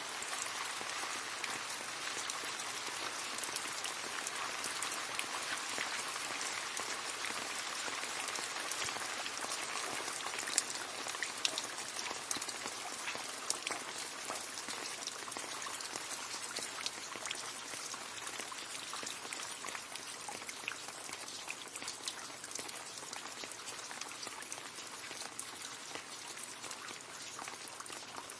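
Rain falling into a puddle: a steady hiss of many drops with separate splashes and plinks scattered through it, easing a little toward the end.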